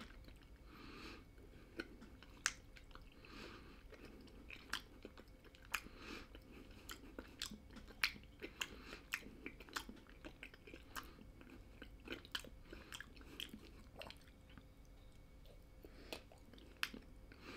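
Faint, close chewing of hard, crunchy Parmesan-flavoured snack sticks by a toothless eater: a string of short, sharp crunches about once or twice a second.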